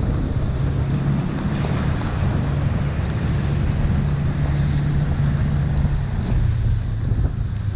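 Steady rushing noise with heavy low rumble, like wind buffeting the microphone, over an even low hum.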